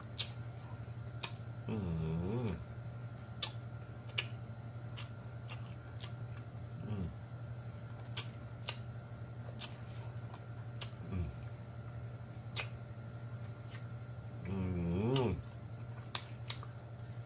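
Close-miked chewing and wet lip-smacking while eating chicken wings, a steady run of sharp mouth clicks. Hummed 'mmm' moans of enjoyment come about two seconds in and again, longer, near the end, with two short ones between.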